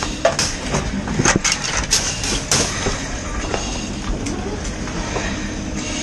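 A steady rumbling noise with a rapid series of sharp knocks and cracks in the first three seconds, after which it settles to the steady rumble.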